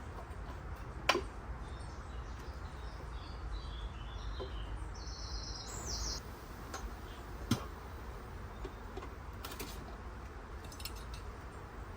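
A small songbird sings a short run of high chirping notes, about halfway through, over a steady low rumble. Two sharp knocks stand out, one about a second in and one later on.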